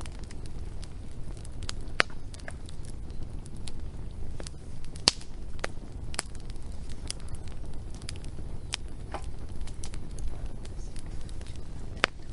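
Wood fire crackling: irregular sharp pops and snaps over a low steady rumble, with the loudest pops about two seconds in, at about five seconds, and near the end.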